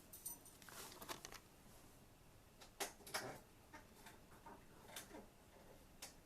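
Near silence in a small room, broken by a few faint, irregular clicks and taps.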